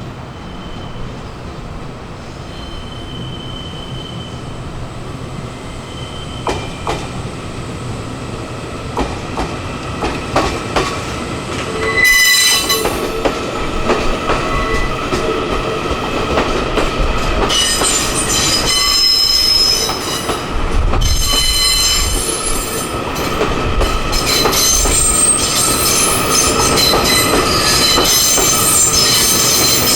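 A train rolling slowly past, growing louder, with wheel flanges squealing in high shrill tones on and off from about halfway through, over the rumble and clatter of wheels on the rails.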